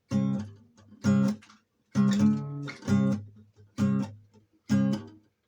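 Acoustic guitar strumming a run of chords, about one a second. Each chord is struck sharply and stopped short, leaving brief silences between strokes.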